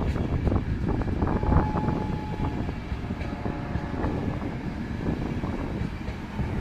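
Train moving on the track: a steady low rumble with scattered clicks, and a thin steady squeal lasting about a second from just over a second in.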